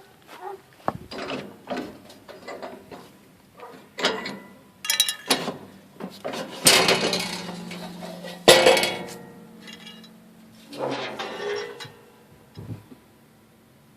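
Metal clanks, clicks and rattles on an old excavator's steel bodywork as it is handled, with two loud bangs that ring on briefly, about seven and eight and a half seconds in.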